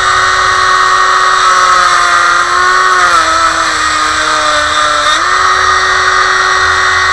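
Dremel rotary tool running at medium speed with a steady whine while cutting into an old, hardened vacuum-line fitting. Its pitch drops from about 3 s to 5 s as the bit is pressed into the work and slows under load, then rises back.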